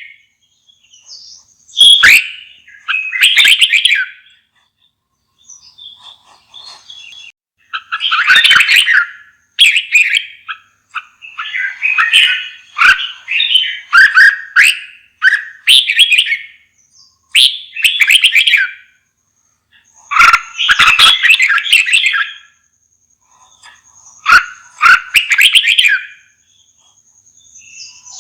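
Red-whiskered bulbul singing: a run of short, loud, warbling phrases a second or two long, separated by brief pauses, with a quieter spell about five to seven seconds in.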